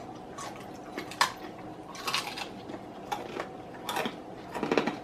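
Crispy fried chicken being bitten and chewed: irregular short crunches and crackles of the breaded crust, a little louder around two seconds in and near the end.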